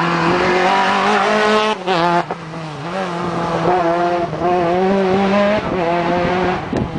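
Rally car engine running hard at high revs as the car drives past on the stage, a steady pitched note with a brief dip in pitch about two seconds in before it picks up again.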